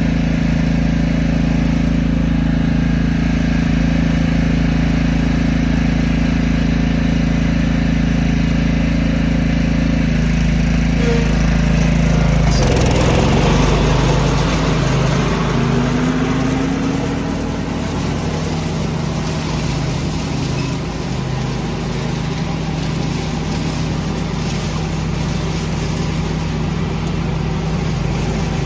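Small petrol engine of a lawn tractor leaf-vacuuming rig running steadily. A little over twelve seconds in, its pitch drops and a brief rush of noise comes in; it then runs on at a lower, rougher note with a faint regular beat.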